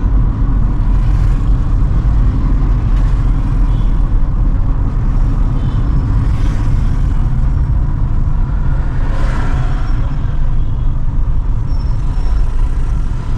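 Car driving slowly through town, heard from inside the car: a steady, loud low rumble of engine and road noise, with a few brief swells of noise along the way.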